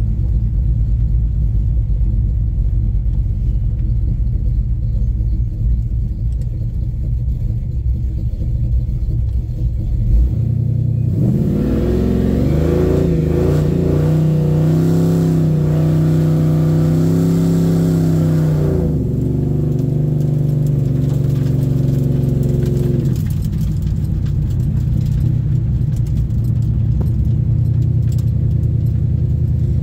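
1970 Chevelle's engine running at a low, steady pitch. About ten seconds in it revs up, the pitch climbing, and holds higher for several seconds. About nineteen seconds in it drops back to low, steady running.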